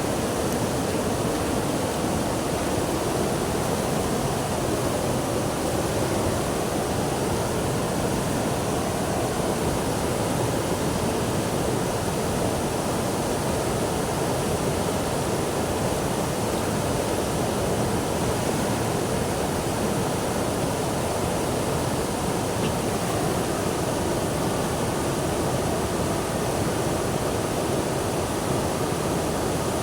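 Steady rush of flowing water, loud and even, with no breaks or changes.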